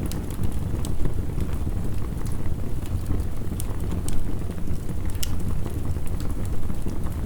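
Wood fire crackling, with a scattering of sharp pops every second or so, over the steady low rush of heavy rain.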